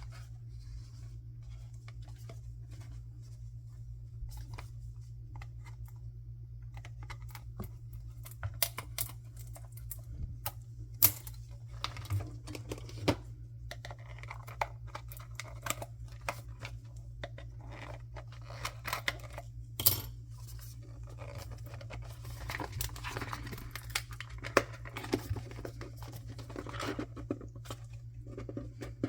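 Blind-box packaging being handled and opened: scattered sharp clicks and taps of plastic and small items, then a stretch of crinkling and tearing wrap in the second half. A steady low electrical hum sits under it throughout.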